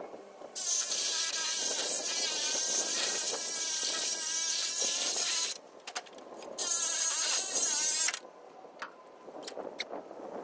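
A metal-cutting tool runs in two bursts, the first about five seconds long and the second about a second and a half, each a loud hissing buzz that starts and stops abruptly, cutting up the harvester's steel.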